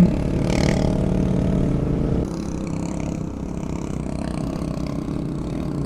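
Adventure motorcycle engine running under way, a steady mechanical note that drops in level a little over two seconds in.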